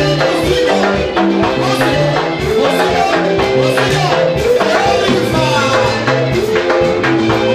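Live band music with a steady beat: bass, keyboard chords and percussion with a shaker.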